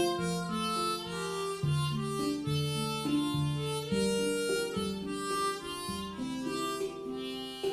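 Instrumental music: a harmonica playing a melody over a plucked guitar accompaniment.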